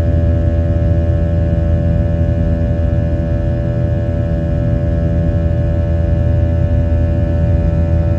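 Steady cabin drone of a Boeing 737-800's CFM56-7B turbofan engines heard from inside the passenger cabin: a strong low hum under several fixed engine tones, holding level throughout.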